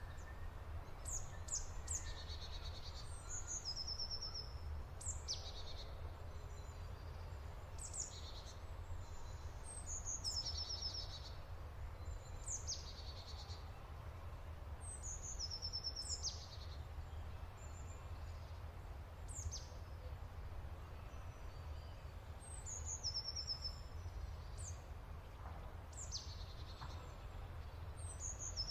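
Small birds chirping: short high calls and quick trills repeating every two to three seconds, over a steady low rumble.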